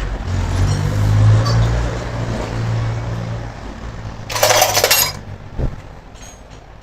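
An engine running with a steady low hum, then a brief loud rush of noise about four seconds in and a single knock shortly after.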